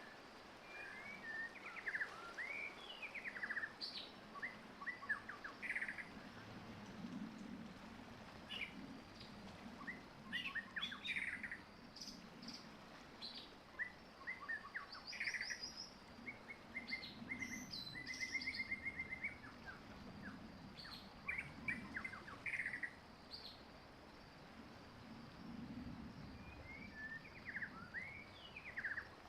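Several wild birds calling and singing: short chirps, quick rising and falling notes and rapid trills, repeated through the whole stretch.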